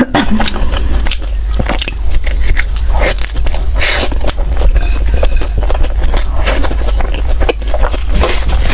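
Close-miked chewing and biting of pork floss bread: wet smacking and small crackles of the mouth, over a steady low hum.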